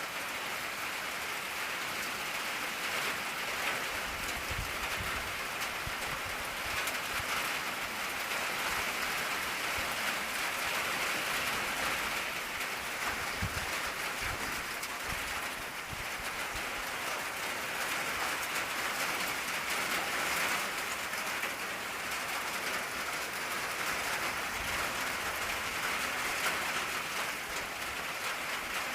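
Steady rain drumming on an old tin roof, a dense patter of drops with an occasional heavier drip thudding low.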